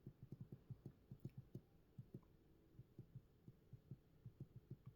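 Near silence: room tone with faint, irregular soft ticks, several a second.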